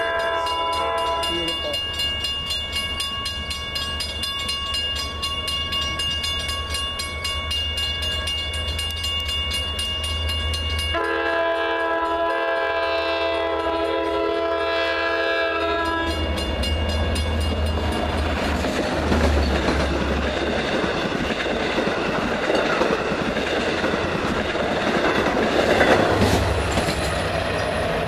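A train's multi-chime air horn blowing one long chord for about sixteen seconds. Its pitch drops about eleven seconds in as the train passes, and then the train runs by with a loud rush of wheel and rail noise and some clatter.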